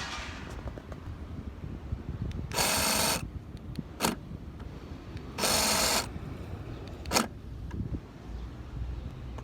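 2016 Honda Civic fuel door lock actuator buzzing twice, each run about half a second long and a few seconds apart, with a few sharp clicks around them. It is the noise the fuel door lock makes each time the car is locked.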